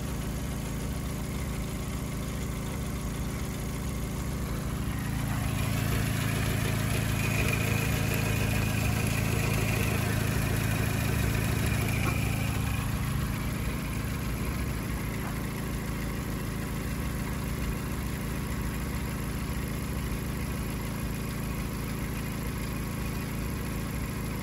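Škoda Fabia 1.4 MPI petrol engine idling steadily. For several seconds, about a quarter of the way in, it is heard up close by the alternator and drive belt: it is louder, with a faint high whine on top.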